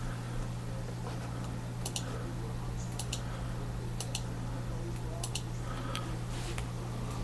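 Light clicks, mostly in quick pairs, about once a second, over a steady low hum.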